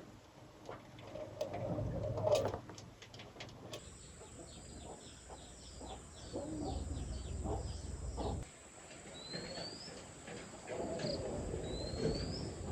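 Birds calling: low wavering calls throughout, joined in the second half by several short, rising high-pitched chirps.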